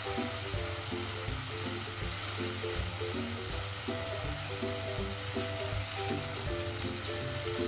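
Food sizzling as it fries in a hot pan, a steady hiss throughout, with background music playing over it.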